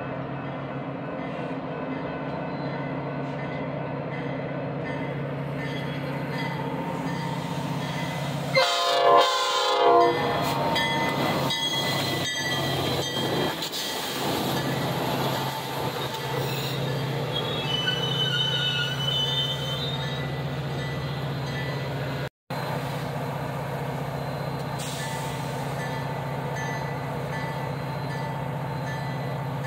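Metra commuter train arriving: an air horn sounds about eight seconds in, then the bilevel passenger cars roll past with wheel clicks and brief high wheel squeal. A diesel locomotive drones steadily underneath throughout.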